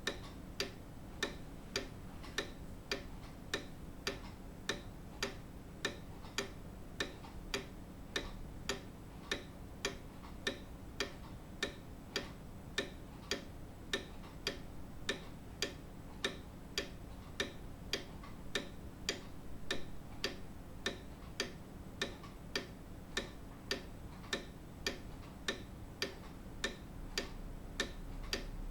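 Grandfather clock ticking: a steady, even tick-tock from the pendulum escapement.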